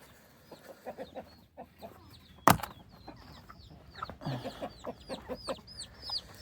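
Chickens clucking in quick pulsed runs, with short high chirping calls repeating several times a second over them. A single sharp knock about two and a half seconds in stands out as the loudest sound.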